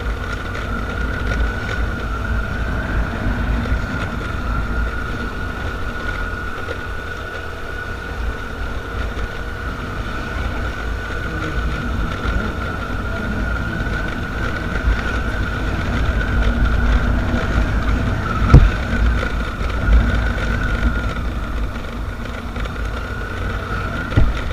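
Motorcycle running on the move, with wind buffeting the microphone and a steady high whine throughout. A couple of sharp thumps, one about two thirds of the way through and one near the end.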